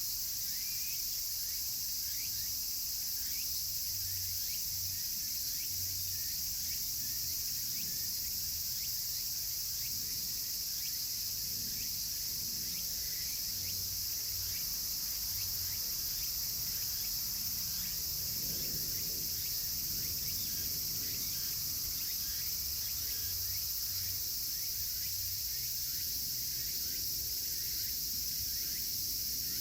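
Cicadas singing in a dense, steady chorus, with a wood fire crackling faintly in many small snaps underneath.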